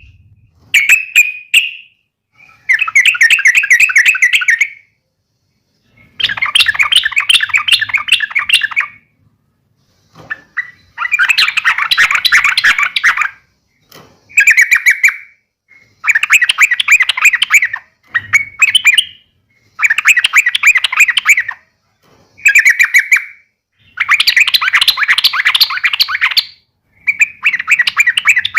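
Yellow-vented bulbul (trucuk) giving a chattering fighting call. It comes in repeated bursts of fast notes, each lasting from under a second to about three seconds, with short pauses between them.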